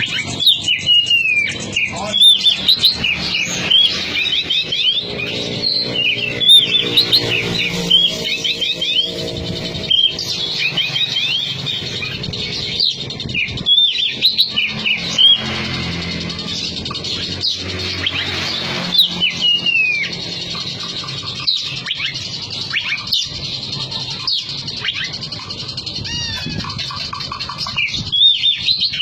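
Oriental magpie-robin (kacer) singing a long, varied song of quick whistled and chirping phrases, with short loud bursts and brief pauses between them.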